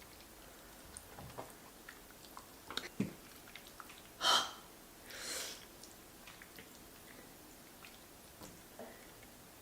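Close-miked eating sounds from a mukbang of king crab fettuccine Alfredo: soft wet clicks of chewing, a short loud breathy intake about four seconds in, and a softer hissing breath about a second later.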